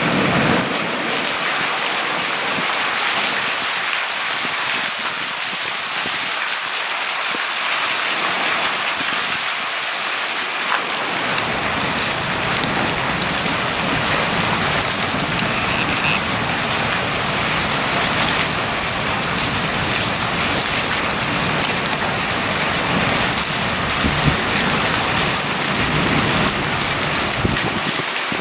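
Heavy rain falling steadily during a thunderstorm. A low rumble of thunder rises under it about a third of the way through and rolls on until near the end.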